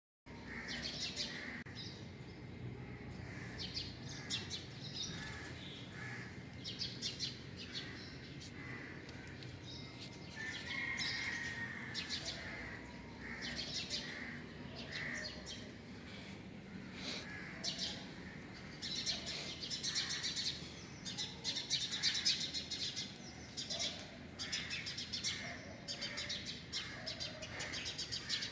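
Small birds chirping and twittering over and over, many short high calls in quick clusters, over a low steady background hum.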